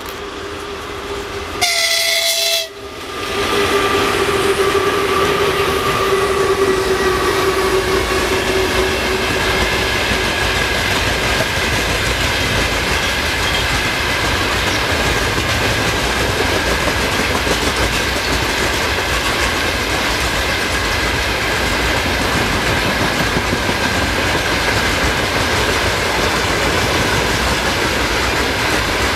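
A Russian locomotive's horn gives one short blast about two seconds in. Then a freight train passes close by, with a loud steady rolling and rattling of wagons; a whine from the locomotive drops slightly in pitch and fades over the next few seconds.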